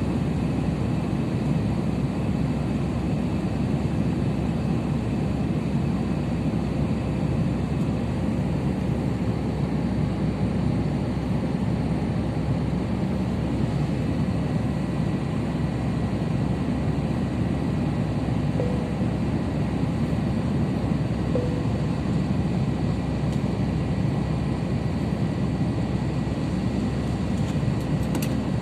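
Steady engine and airflow noise inside the cabin of an Airbus A350-900 in flight: an even, deep rumble with a faint steady whine above it.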